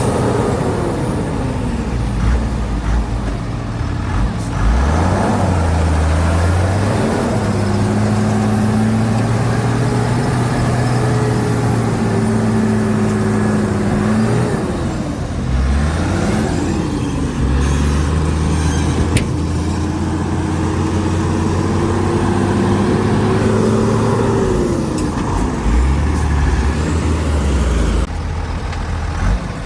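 Heavy diesel engine of a Shantui DH17C2 bulldozer running hard while it works, its engine note dropping and climbing again several times as the load changes.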